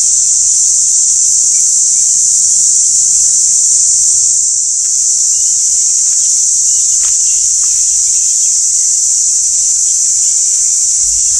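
A steady, loud, high-pitched insect chorus drones without a break, with a few faint short chirps near the middle.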